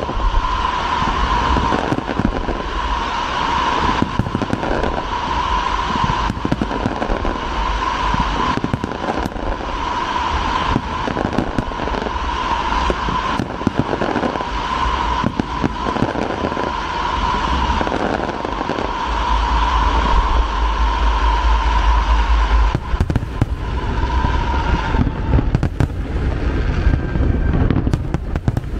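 Large fireworks display: a dense, continuous barrage of bangs and crackling with heavy low booms. A steady high tone runs beneath it and fades out near the end.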